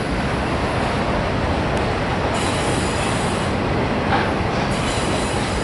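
Autorack freight cars rolling past on the rails: a steady rumble of steel wheels on track, with faint high wheel squeal at times.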